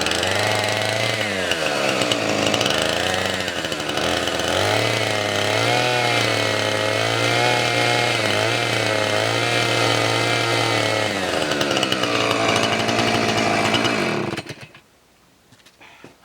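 Gasoline chainsaw running at high revs, its pitch wavering up and down as it bogs and recovers while cutting firewood, then stopping abruptly near the end.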